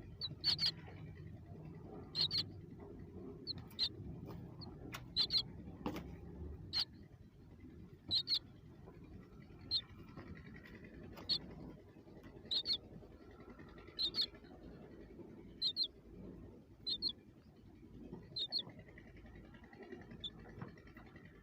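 Young birds peeping: short, high chirps, often in quick pairs, repeating about every second or so.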